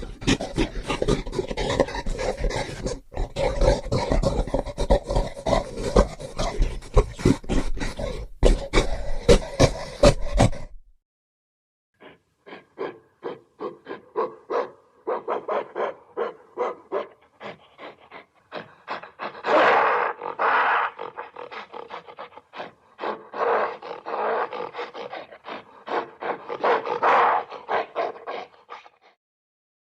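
Animal growling and roaring in rapid, pulsing runs. It cuts off about eleven seconds in, goes silent for a second, then starts again with louder bursts.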